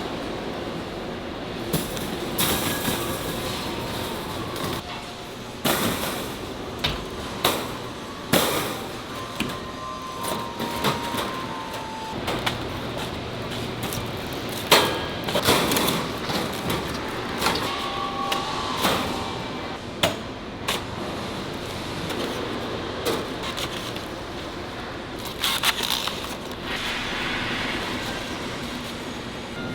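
Factory floor sound: a steady mechanical hum with irregular metal clanks and knocks, a dozen or more, and a few brief squeaks.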